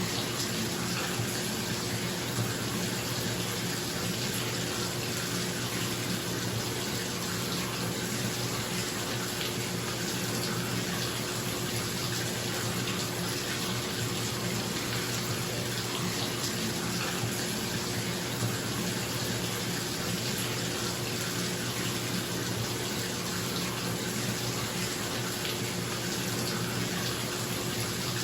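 Bathtub tap running steadily into the tub, a constant rushing splash, with a bathroom exhaust fan humming underneath.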